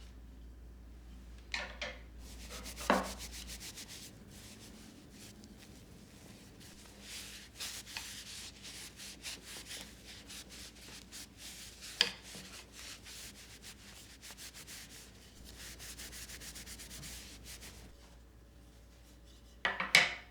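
Hand scrubbing with a brush or sponge: runs of quick back-and-forth rubbing strokes, with a few sharp knocks, the loudest near the end.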